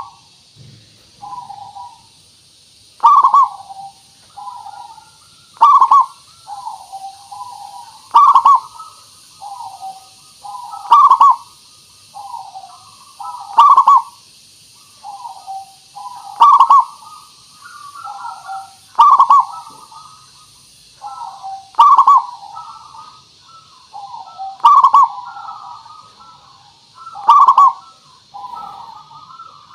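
Zebra dove (perkutut) cooing in a lure recording. It repeats its phrase over and over, with a loud coo about every two and a half to three seconds and softer coos between, over a steady faint high hiss.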